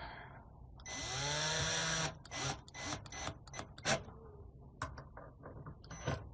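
Power drill driving a mounting screw: it spins up and runs for about a second, then gives a string of short bursts and clicks as the screw is snugged down.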